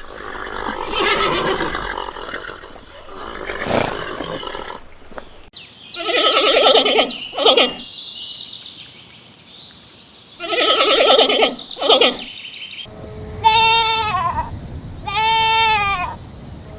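Farm animals calling in turn: rough, pulsing calls through the first part, then bleating near the end, each bleat a clear falling call.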